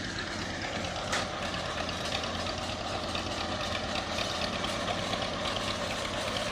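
An engine running steadily at idle, with a fast even chugging, and a single sharp click about a second in.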